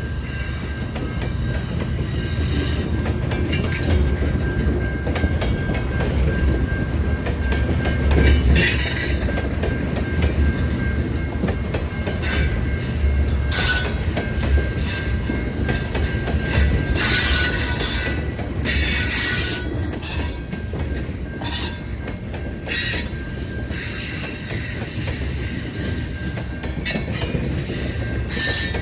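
A train rolling past on the rails, with a steady low rumble of wheels and cars and a thin high squeal held throughout. Several times over the passage, louder stretches of high-pitched wheel screech rise and fade.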